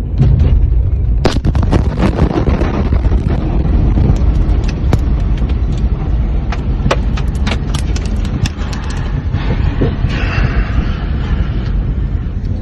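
A large explosion's heavy low rumble, with many sharp cracks and crackles scattered through it.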